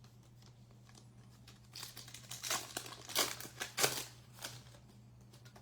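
Plastic trading card pack wrapper crinkling as it is torn open, in a burst of about three seconds that is loudest near the middle.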